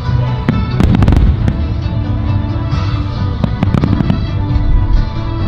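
Aerial fireworks going off in clusters of sharp bangs and crackles, over background music with long held tones.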